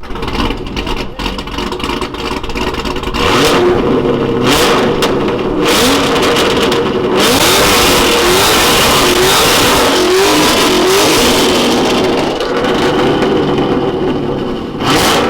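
Chevrolet Corvette C7's V8 revved loudly again and again in a choppy, rhythmic pattern, after a quieter first few seconds.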